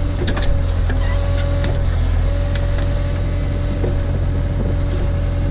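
Case/Davis D100 backhoe's engine running steadily under the work, with a steady whine over it and scattered knocks and clicks as the bucket digs at a stump. A brief hiss comes about two seconds in.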